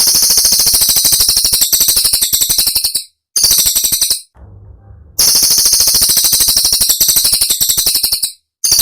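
Cililin songbird singing its 'tembakan': a very rapid, high-pitched rattling trill of dense clicks, delivered in long bursts of a few seconds. There are short breaks just after three seconds and near the end, and a longer one around four to five seconds in.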